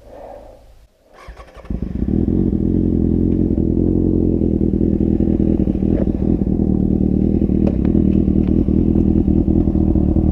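Motorcycle engine that comes in about a second and a half in and then runs steadily at a constant low speed, as at idle.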